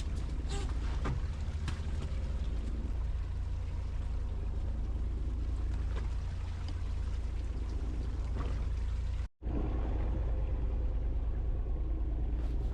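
Fishing boat's engine running with a steady low rumble, with a few faint knocks on top; the sound cuts out for an instant about nine seconds in and then carries on the same.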